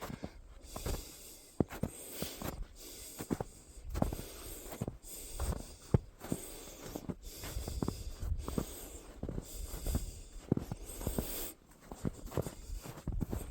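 A hiker's footsteps on packed snow, about two steps a second, over a low rumble on the microphone.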